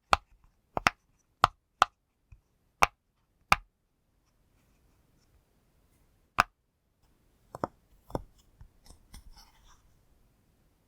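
Fidget pop toy being pressed, giving sharp single pops at an uneven pace: a quick run of about six in the first few seconds, a pause, then three more. Faint soft clicking follows near the end.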